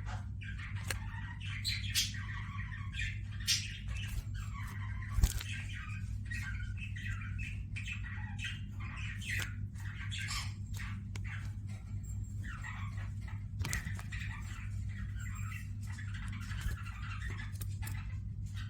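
Gouldian finches and budgerigars chattering and chirping without a break, with scattered sharp clicks, one louder about five seconds in, over a steady low hum.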